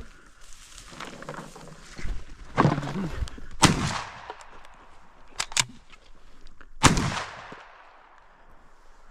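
Two shotgun shots about three seconds apart, each ringing out briefly, with two sharp clicks between them: shooting at a jump-flushed duck.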